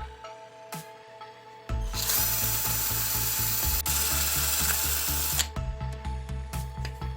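A power tool runs steadily for about three and a half seconds, starting about two seconds in. Background music with a steady beat plays throughout.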